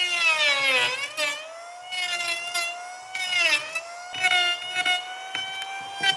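Electric power tool motor running at high speed, its whine sagging in pitch several times as it is loaded against the wood and then speeding back up.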